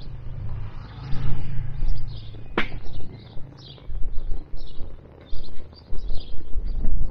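Small birds chirping repeatedly over gusty wind buffeting the microphone, with one sharp crack about two and a half seconds in.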